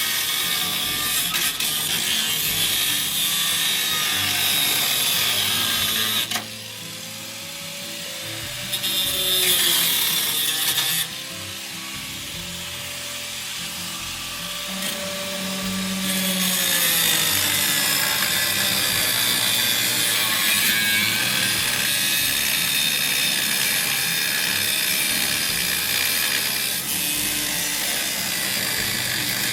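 Power grinder grinding in long runs, a loud hissing grind that eases off twice for several seconds before picking up again.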